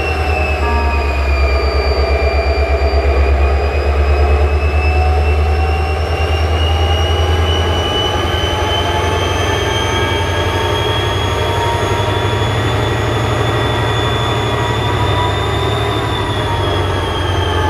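GM-EMD two-stroke diesel locomotive engine running at high revs, a deep rumble under a whine that dips, climbs slowly for most of the time and falls off near the end.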